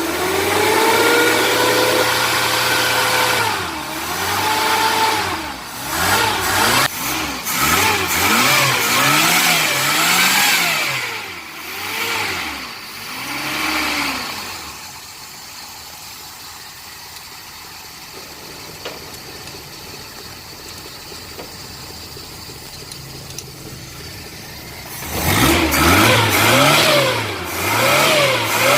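Suzuki Carry's 1.0-litre F10A four-cylinder engine being revved with repeated throttle blips, each rev rising and falling. It settles to idle for about ten seconds, then is blipped again near the end. This is a test run after the carburettor, distributor and spark plugs were cleaned to cure black smoke from the exhaust.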